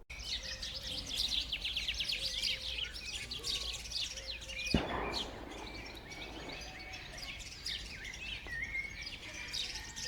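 A crowd of small birds chirping: many short, high, overlapping chirps. There is a sharp click about five seconds in.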